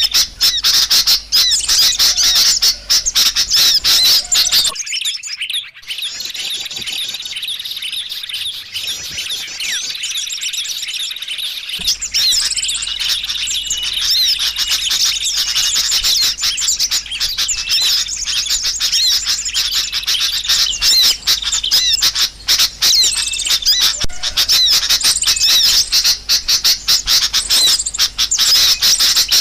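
Small birds chirping rapidly and densely in high, quick notes: a recorded lure call used to draw small birds in. From about five to twelve seconds in the chirping is quieter and thinner before returning at full strength.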